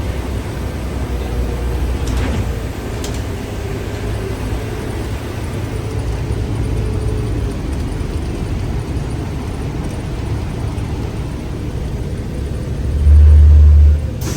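City bus running, a steady low engine and road rumble heard from inside the bus, with a faint steady whine. Near the end, a loud low boom lasts about a second.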